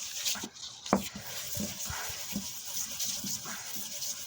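Aluminium thermostat housing being rubbed back and forth on very fine P2000 wet-and-dry paper laid flat on glass, a soft scratchy rasp as the corroded mating face is flattened and brought up clean. A sharp knock about a second in.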